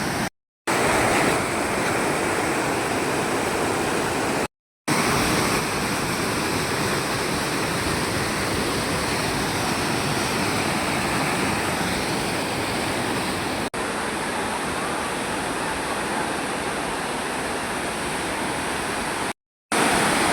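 Waterfall: a steady, loud rush of falling water, broken three times by a moment of silence where clips are joined.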